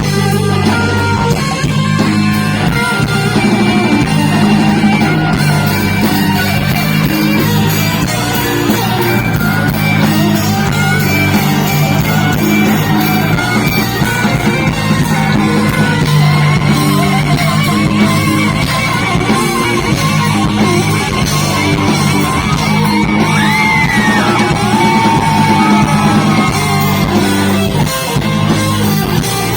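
Rock band playing live: an electric guitar solo over bass and drums. About halfway in, the guitar holds long wavering notes and bends them up and down.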